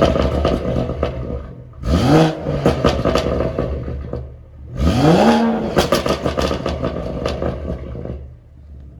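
BMW M140i's turbocharged 3.0-litre straight-six through a straight-pipe exhaust in Sport Plus mode, revved up sharply twice, each rev followed by a run of crackling pops and bangs on the overrun, then dropping back to idle near the end. Ridiculously loud.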